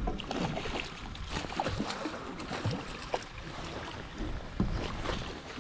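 Choppy sea water slapping and lapping irregularly against the floating walkways of a sea fishing pen, with wind rumbling on the microphone.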